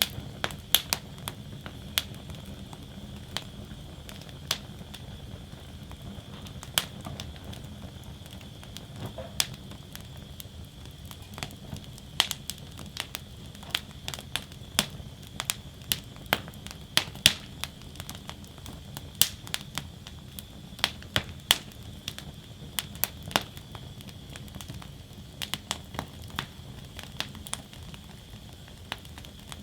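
Wood fire burning in a metal fire basket, crackling and popping with many sharp, irregular snaps over a steady low rumble of the flames.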